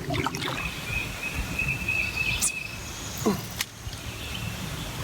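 A bird's high, steady trill lasting about two seconds, over outdoor background noise, with a short falling whistle about three seconds in.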